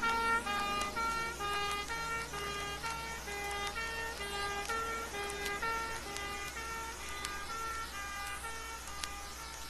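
British emergency vehicle's two-tone horn, switching back and forth between two notes and fading gradually as it goes away.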